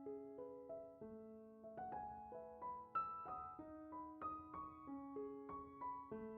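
Soft background piano music: a slow, gentle melody of sustained notes.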